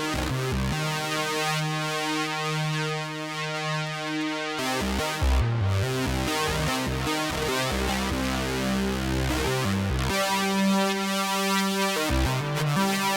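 Behringer Poly D analog synthesizer playing a held note rich in overtones. It then breaks into a run of short, quickly changing low bass notes, swells into another held tone, and returns to quick low notes near the end.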